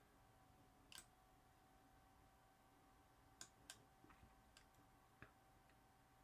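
Near silence: room tone with a faint steady hum and a handful of faint, scattered clicks, about a second in and then several in the middle.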